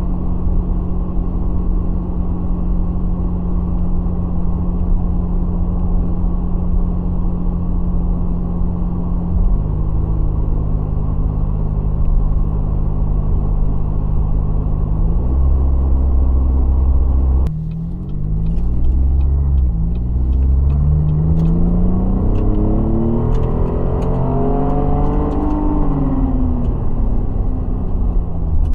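Chevy Colorado ZR2's 3.6-litre V6 running through an MBRP performance exhaust while climbing a steep hill: a steady drone that steps in pitch twice, then drops suddenly just past halfway and rises and falls in revs over the last ten seconds.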